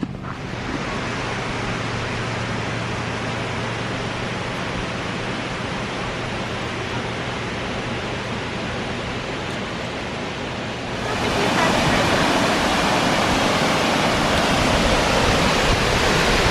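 Steady rush of a river waterfall, a constant noise that grows louder about eleven seconds in.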